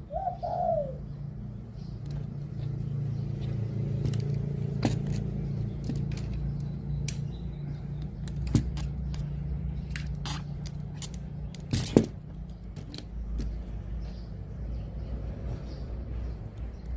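Doves cooing in the open, over a low steady hum. Sharp clicks come near 5 s, 8.5 s and 12 s, the one near 12 s the loudest.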